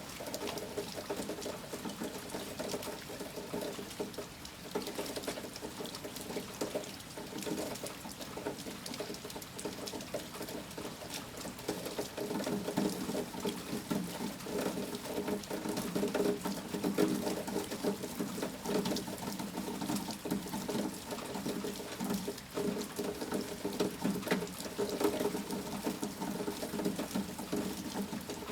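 Heavy storm rain pattering steadily, a dense run of small irregular drops. The rain swells slightly about halfway through.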